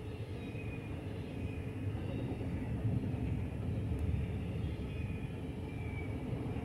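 Freight trains of container cars rolling through a grade crossing: a steady low rumble of wheels on rail, with faint brief high squeals about once a second.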